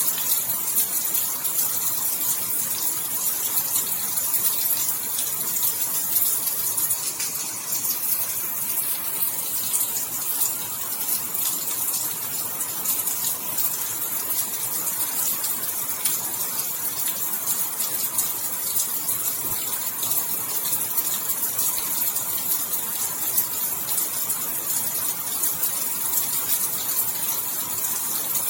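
Steady rain falling: an even, high hiss with a dense patter of drops that holds at the same level throughout.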